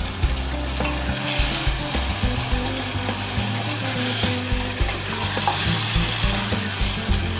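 Chicken pieces sizzling in a granite-coated pot as a spatula stirs and turns them, with small knocks of the spatula against the pot. The meat is being stir-fried (kosha) in the water it has released.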